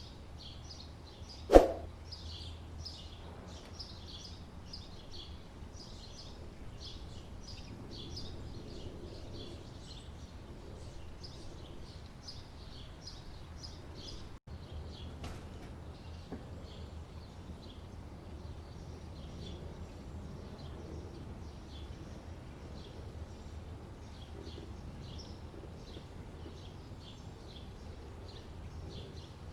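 Parrots chirping: many short, quick high chirps running on and on over a steady low hum. One loud sharp knock comes about a second and a half in.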